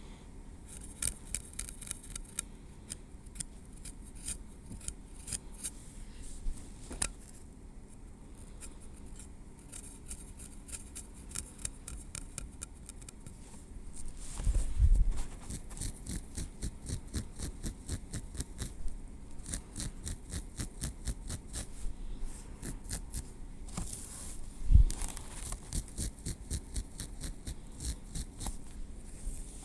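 Metal tweezers clicking and scraping through hair at the scalp, close to the microphone: long runs of fine, quick clicks. A dull bump comes about 15 seconds in, and a louder one near 25 seconds.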